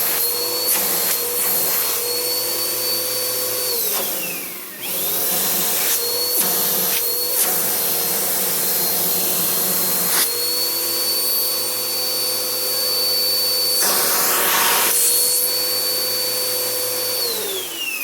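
Bissell bagged vacuum cleaner motor running with a steady high whine. It winds down about four seconds in, spins back up a second later, and winds down again near the end. Around fourteen seconds in there is a brief rush of air.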